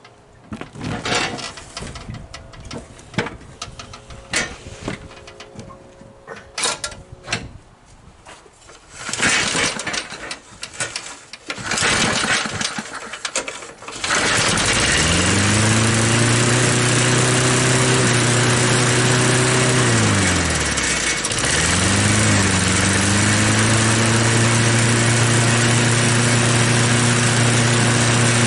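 A 1983 Snapper mower engine being started: clicks and knocks, then two rough pulls of the recoil starter, and about halfway through the engine catches and runs up. It sags almost to a stall a little later, picks up again and runs steadily and fast, unable to idle and holding at full throttle.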